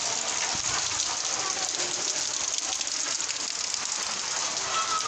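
Steady rain falling on surfaces, a continuous even hiss.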